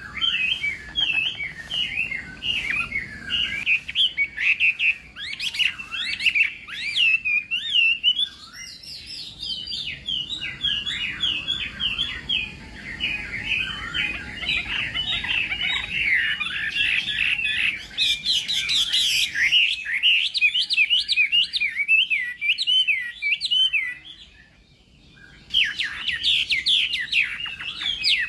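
Chinese hwamei (họa mi) singing a continuous, fast stream of varied whistled phrases, with a short pause about 24 seconds in.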